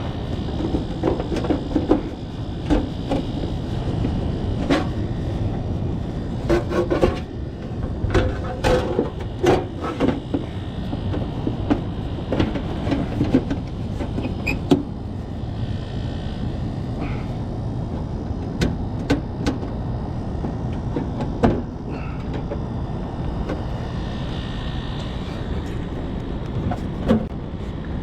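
Steady low rumble with irregular knocks and clatter, many in the first half and a few scattered later, as of metal covers and tools being handled at rows of old Carrier heat pump units.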